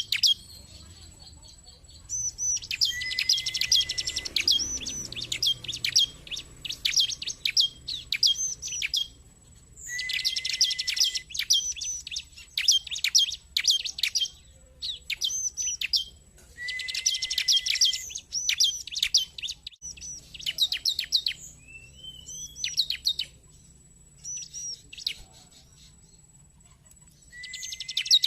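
Bar-winged prinia (ciblek) calling: four bursts of rapid high chirps, each opening with a short lower note, with spaced repeated high notes in between.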